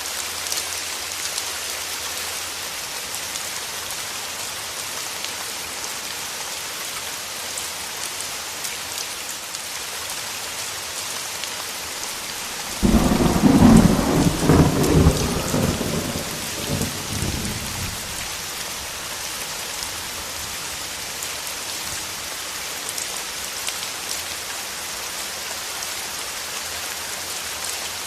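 Steady heavy rain, with a sudden thunderclap about halfway through that rumbles and dies away over about five seconds.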